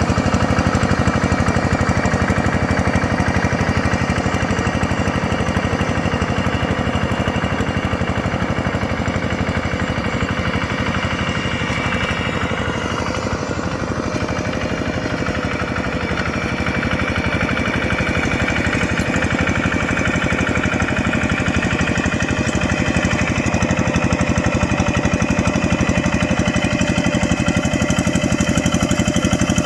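Yanmar EF725T tractor's diesel engine running steadily with a fast, even clatter, dipping slightly in level about halfway through.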